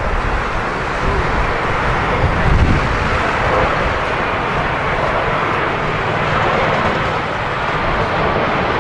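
Jet airliner engines running steadily as it approaches or lands, under gusty wind rumbling on the microphone.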